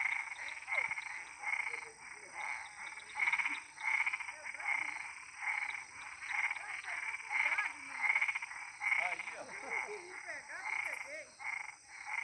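A chorus of frogs calling, short rasping calls overlapping about two or three a second, over a steady high insect drone.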